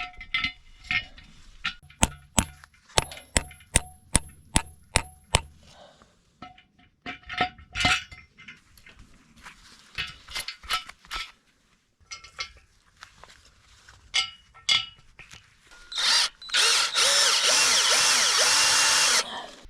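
A rapid series of about a dozen ringing metal strikes, then scattered knocks. Near the end a power drill runs loudly for about three seconds and stops suddenly, drilling into concrete for an anchor bolt.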